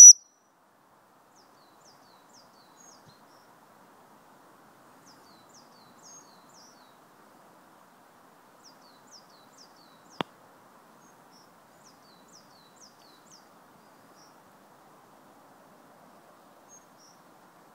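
The tail of a loud, high dog-recall whistle blast right at the start, then faint bird chirps, short falling notes in small groups, over a faint steady background hiss. A single sharp click about ten seconds in.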